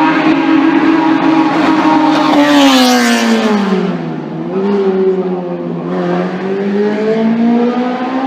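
Classic racing car's engine running hard, passing close about three seconds in with its pitch falling, then pitching up again twice as it accelerates away.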